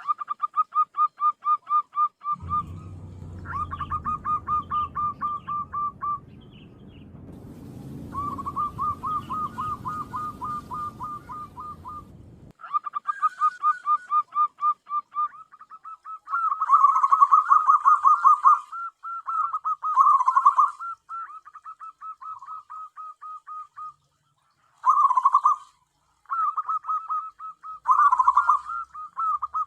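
Zebra dove (perkutut) calling: runs of rapid, evenly repeated cooing notes lasting a few seconds each, broken by short pauses. A low rumble sits under the calls for about ten seconds early on.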